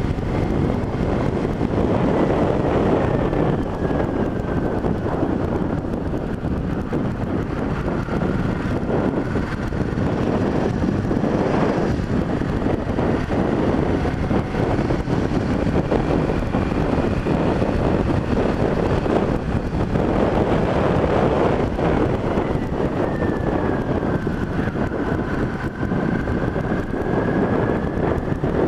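Wind buffeting the microphone of a riding motorcyclist over the steady noise of the motorcycle and the road. A faint whine dips and rises in pitch twice.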